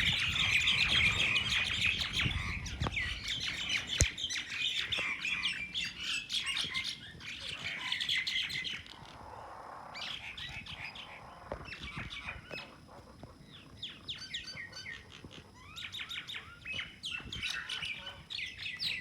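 A flock of small birds chirping in a rapid, dense flurry of short, high chirps, loudest at the start. The chirping dies down briefly about nine seconds in, then picks up again.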